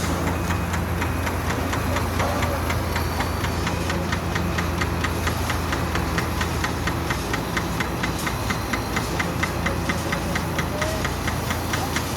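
Heavy construction machine's diesel engine running steadily, with a regular clicking of about five ticks a second over the engine hum.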